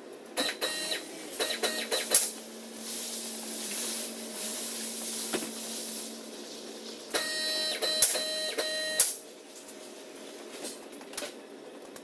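A power wrench spinning out fasteners: short bursts of motor whir with clicks, then a hissing stretch, then a longer steady whir of about two seconds late on.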